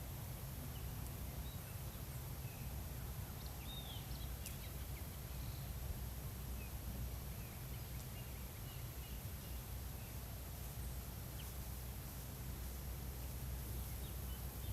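Outdoor ambience: a steady low rumble with a few short, faint bird chirps scattered through the first few seconds.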